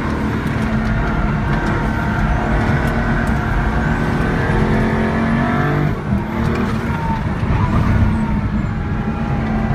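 Pagani Huayra BC's twin-turbo V12 engine heard from inside the cabin at track speed, its note climbing through the revs midway, dipping briefly about six seconds in, then pulling steadily again over road noise.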